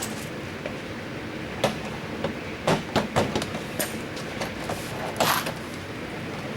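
Plastic interior door trim panel being worked up and off the door by hand: several sharp knocks and clicks, then a short scraping rattle, over a steady background hiss.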